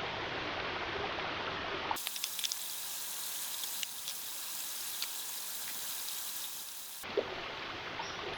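Mackerel sizzling on a grill over charcoal, a steady hiss with small pops and crackles, lasting about five seconds. It is set between stretches of a steady running stream.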